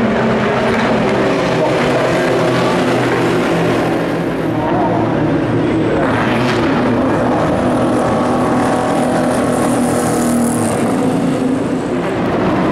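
Endurance race cars going by on track, their engines running at high revs, rising and falling in pitch as they pass, with a brief high whine near the end.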